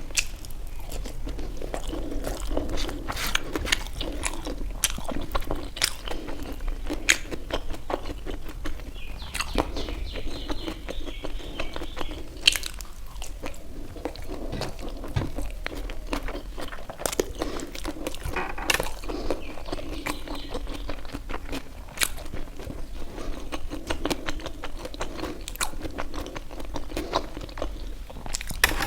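Close-up eating of momo dumplings: irregular crunchy clicks of biting and wet chewing, with no pause longer than a moment.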